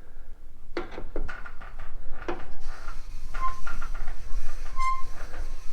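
Cast-iron barrel lap turning by hand in a Harley-Davidson K-Model engine's main bearing race, giving a few clicks and then short, high squeaks about every second and a half. The squeak means that the lap is running dry and needs a drop of oil.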